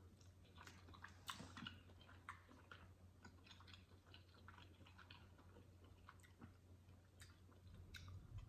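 Quiet chewing of chitterlings in hot sauce: soft, irregular wet mouth clicks and smacks, several a second.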